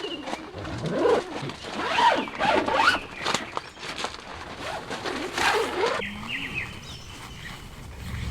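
A zipper pulled open and shut in several quick strokes. About six seconds in, it gives way abruptly to a quieter, steady background.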